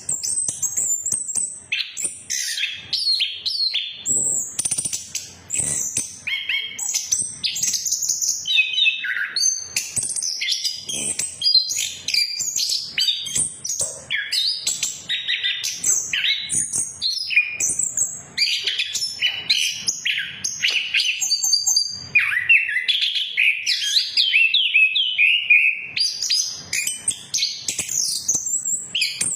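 Chestnut-capped thrush (anis kembang) singing without a break: a fast, varied run of high-pitched chirps, trills and sliding whistled phrases.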